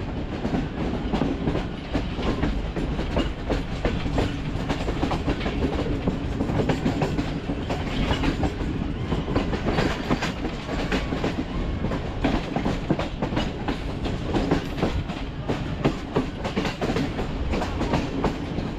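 Passenger train running along the track, heard from on board: a steady clickety-clack of wheels over the rails over a constant low rumble.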